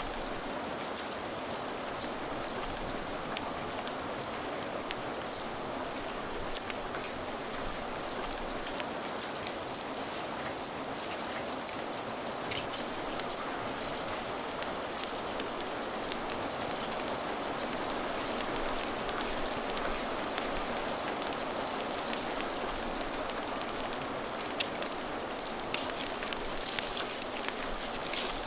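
Steady rain falling on a surface: an even hiss with many small, scattered ticks of drops.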